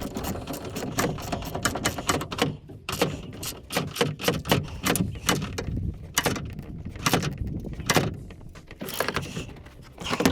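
Irregular metallic clicks and knocks of a wrench tightening the top mounting bolts of a new rear strut on a 2009 Honda Accord.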